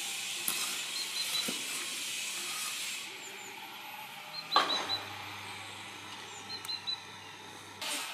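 A small bird repeating a quick, high three-note call four times over a steady hiss, with a few light knocks of tools on timber; the loudest knock comes about halfway through.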